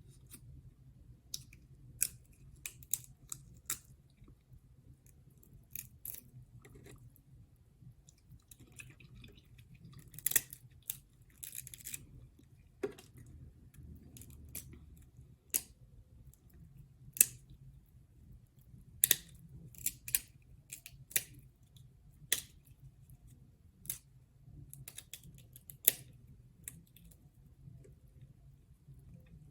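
Close-miked eating of crab legs and shrimp: chewing with sharp, irregular clicks and cracks, a few every couple of seconds, over a faint low hum.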